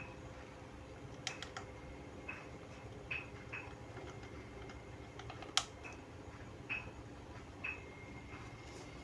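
Scattered light clicks and taps of hand tools and meter probes on a TV power-supply circuit board, the sharpest one about halfway through, over a faint steady hum.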